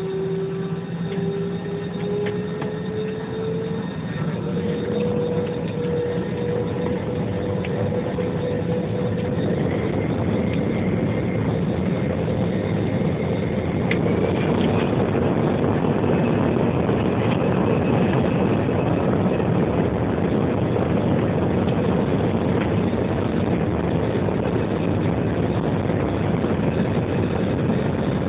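Jet airliner's engines spooling up for takeoff, heard inside the cabin. A whine rises in pitch over the first few seconds, then a rushing engine noise grows louder as the plane accelerates down the runway and holds steady.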